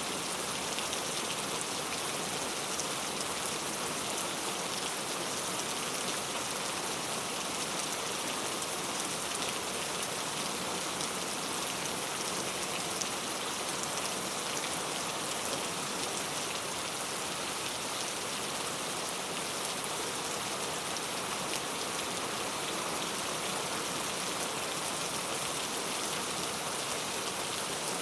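Heavy rain falling steadily, a dense hiss of drops spattering on hard surfaces, even in loudness.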